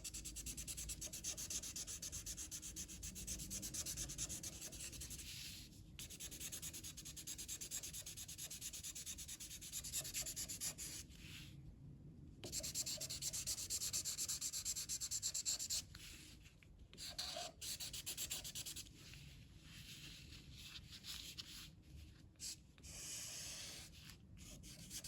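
Light blue colouring tool shading across paper, a steady scratchy rubbing in long back-and-forth strokes, broken by a few short pauses as the hand lifts and moves to a new area.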